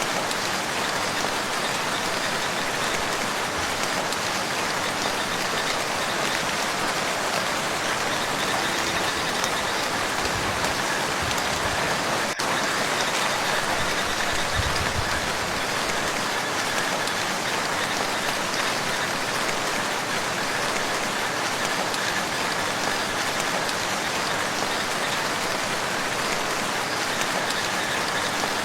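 Steady rain falling on a lake's surface: an even, continuous hiss of many drops.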